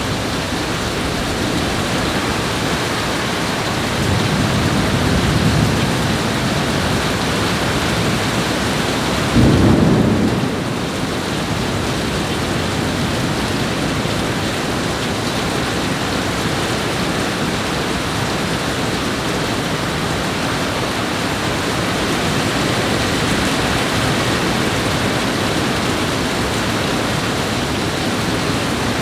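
Heavy rain pouring steadily, with thunder rumbling low about four seconds in and a louder, shorter rumble about ten seconds in.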